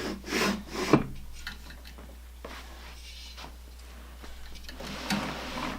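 Knocks and rubbing from handling the exercise bike's parts, with a cluster of short knocks in the first second and a longer scraping rub near the end.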